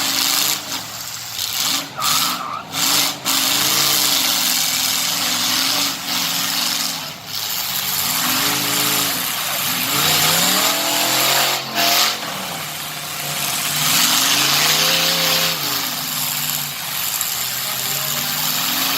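Truck engine run hard under a loud rushing hiss, its pitch climbing and dropping back several times as it is revved up and down.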